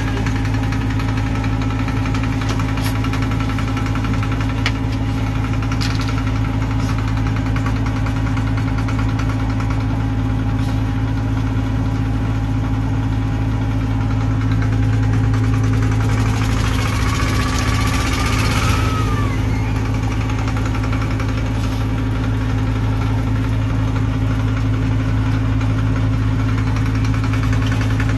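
Tractor engine running steadily at low revs. About two-thirds of the way through, a brief high hiss with a short squeal rises and falls over it.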